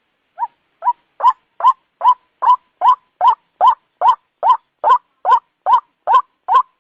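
White-breasted waterhen calling: a fast, even series of short, identical notes, about two and a half a second, each rising and then dropping in pitch. The first two notes are fainter.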